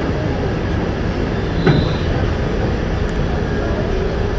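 An R68 subway car with Westinghouse propulsion running through the tunnel, heard from inside the car: a steady loud rumble of wheels and motors, with one short clank and a brief high squeal about a second and a half in.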